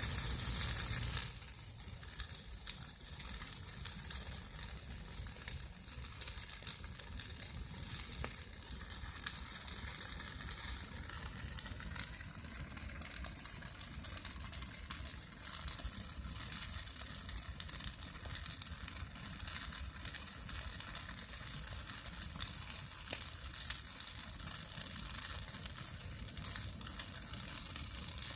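Bonfire of branches burning: a steady hiss with frequent small crackles and pops.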